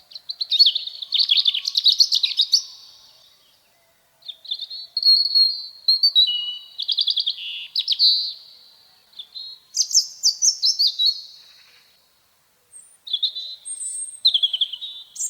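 European robin singing: a series of high, quickly varying warbled phrases, each two to three seconds long, with short pauses between them.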